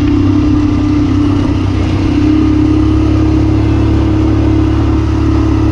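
ATV engine running steadily, its pitch edging up slightly about two seconds in.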